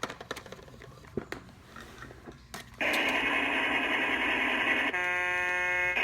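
The Matchbox Rocky the Robot Truck toy's small speaker plays an engine-running sound effect, which starts abruptly about three seconds in after a few light clicks. A horn tone sounds over it near the end.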